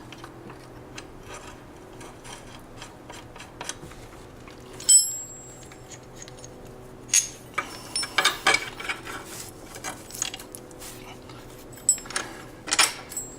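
Loose metal parts and hardware being handled, clinking and clattering. One sharp clink about five seconds in rings briefly, with more clusters of clicks later on.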